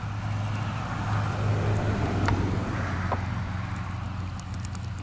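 A road vehicle passing by, its sound swelling to a peak about two seconds in and then fading, over a steady low rumble.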